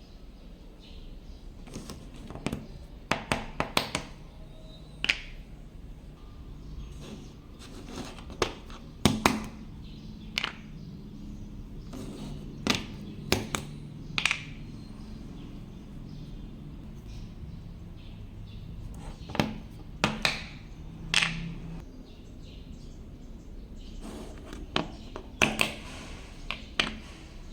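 Irregular sharp knocks and clicks, some in quick clusters of two to four, over a low steady hum.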